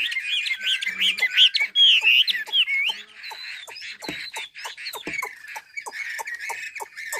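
Chinese hwamei (họa mi) singing loud, fluted whistled phrases with sweeping up-and-down notes, then, about three seconds in, a quieter run of quick sharp clicks over softer song.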